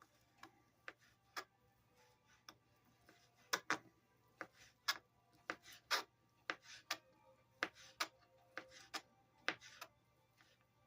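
Knife striking a cutting board in irregular, sharp knocks as food is cut up.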